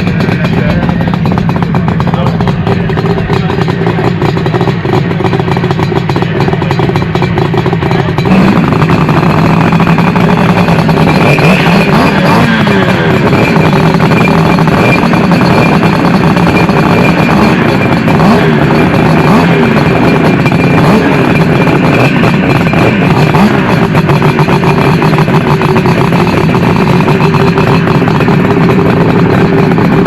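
Motorcycle engine running steadily under way, with wind and road noise. About eight seconds in it gets louder and its note rises a little as the bike picks up speed, then it holds steady.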